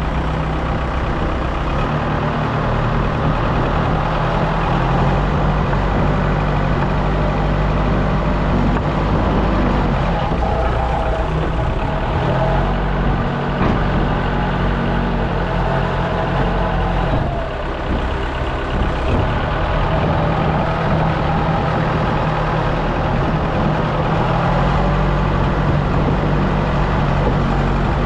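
Diesel engine of a loader pushing and levelling fill dirt, running steadily with its pitch and load rising and falling every few seconds as the machine works, easing off briefly a little past halfway.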